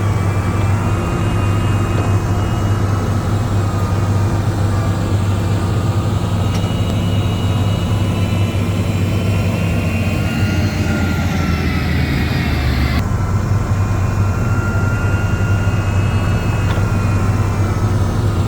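Heavy diesel earthmoving machine engine running steadily with a deep drone. A higher whine swells partway through and stops abruptly.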